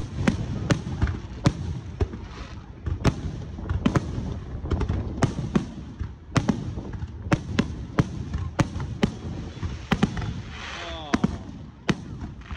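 Aerial fireworks shells bursting in a fast, irregular run of sharp bangs, two or three a second, over a low rumble. A brief wavering pitched sound rises and falls about ten seconds in.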